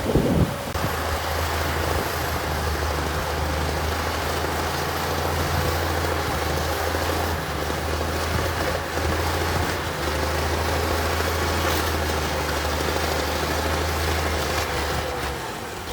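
Heavy diesel engine of earthmoving equipment running steadily: a constant low drone with a faint higher whine above it.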